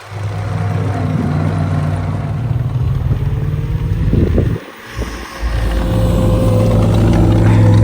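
A vehicle engine running at a steady speed. It drops out briefly a little past halfway and comes back louder.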